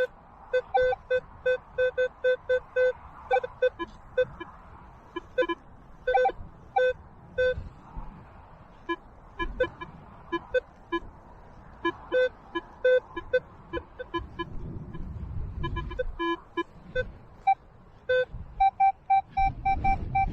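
Metal detector sounding short target beeps at a few different pitches, irregular and often several a second, as the coil sweeps over buried metal. Wind rumbles on the microphone, strongest about two-thirds of the way through and again near the end.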